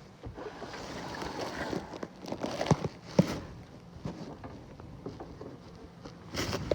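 Cloth rustling and rubbing over a phone microphone inside a bee-suit pocket, with scattered small clicks and two sharp knocks about three seconds in.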